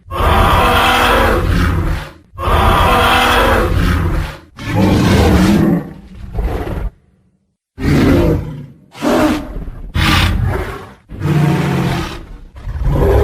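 Tyrannosaurus rex roar sound effects: about eight loud roars one after another, the first three long, then a brief silence about seven seconds in, and shorter roars after it.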